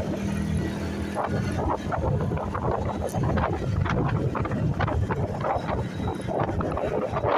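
Motorcycle engine running, with wind buffeting the microphone in uneven gusts.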